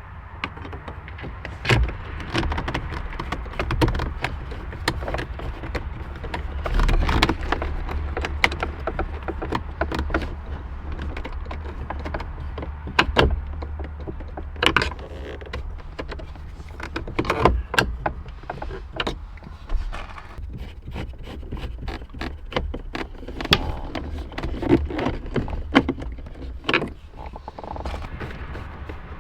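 Hands refitting a plastic instrument surround into a car dashboard: irregular clicks, taps and knocks of plastic trim and tools, over a steady low hum.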